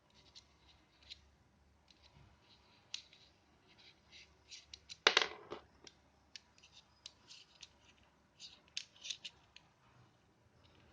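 Parts of a WE G18C gas-blowback airsoft pistol being handled and fitted together: a scatter of small clicks and scrapes, with one sharp, much louder snap about five seconds in.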